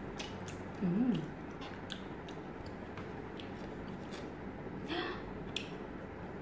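Close-up chewing of grilled skewered meat, with scattered small wet mouth clicks. A brief voice sound with a wavering pitch, the loudest thing, comes about a second in, and a shorter one near five seconds.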